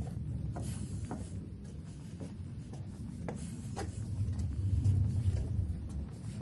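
Footsteps at a walking pace, about two a second, over a low rumble that swells about five seconds in.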